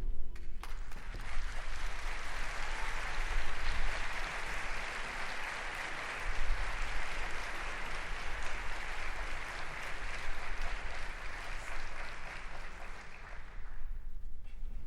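Audience applauding. It starts just after a piece of music ends and fades away near the end, over a steady low hum.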